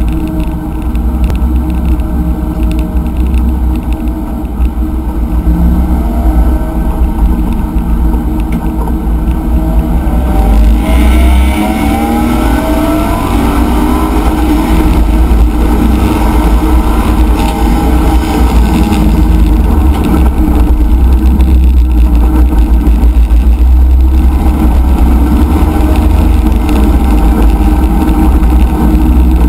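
Chevrolet C5 Corvette race car's V8 engine heard from inside the cockpit with heavy low rumble. It pulls steadily at low speed, then accelerates hard from about ten seconds in, its pitch climbing, and stays loud as the car reaches speed.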